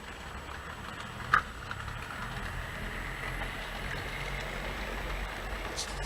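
HO scale model freight train running along the track, a steady low rumble of the powered Bachmann Spectrum GE E33 locomotive and the rolling cars, with faint ticks of wheels over the rails and one sharp click about a second and a half in.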